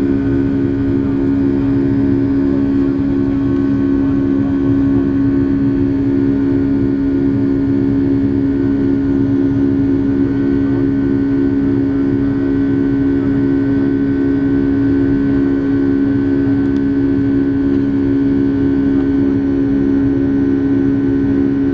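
Cabin noise of a Boeing 757 in flight: a loud, steady engine drone with a pulsing beat about twice a second over the hiss of airflow, heard inside the passenger cabin.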